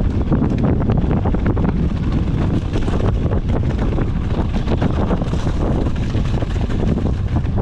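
Wind buffeting the microphone during a mountain bike ride, over a steady run of rapid knocks and rattles from the bike and tyres on rough trail.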